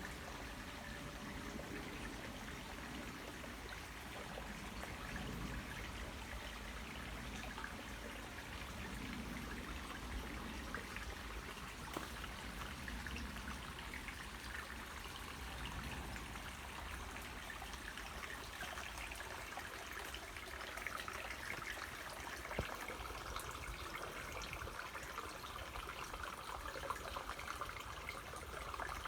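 Waterfall: falling water splashing and pouring steadily.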